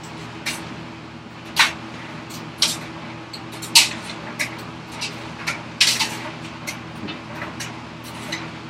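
Light taps of a chisel hammer on a chisel cutting into dry ash, about a dozen at irregular intervals, some close together, over a steady low hum.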